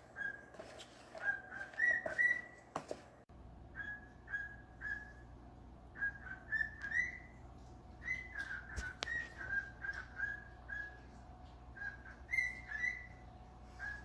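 Pet parrot whistling a tune: a string of short, clear whistled notes, some sliding upward, in quick clusters with short pauses between.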